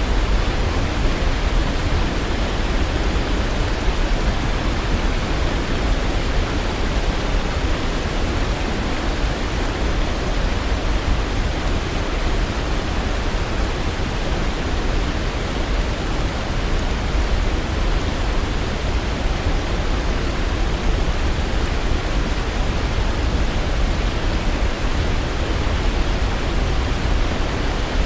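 Waterfall: a steady, even rush of falling water, strongest in the low end and dull at the top.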